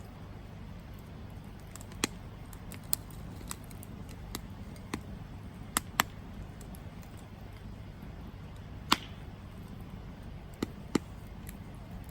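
Campfire wood crackling: about ten sharp, irregular pops, the loudest about nine seconds in, over a steady low rumble.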